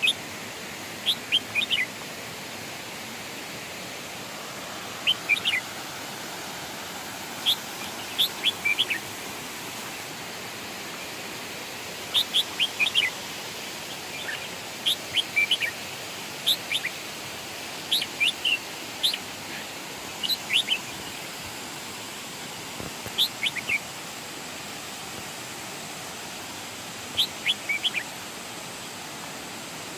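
A songbird repeating short phrases of a few quick, high, downslurred whistled notes every two to three seconds, over a steady rush of falling water.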